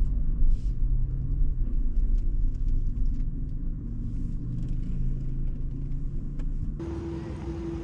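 Toyota 4Runner driving: steady engine and road rumble with a few faint ticks. About seven seconds in it changes abruptly to an even hiss with a steady low hum.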